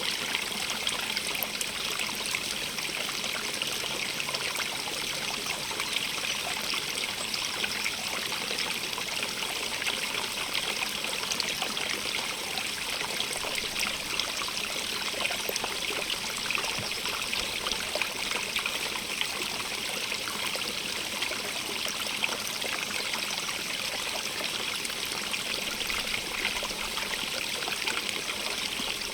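Stream of running water flowing and trickling steadily, a continuous hiss strongest in the upper range with fine splashing detail throughout.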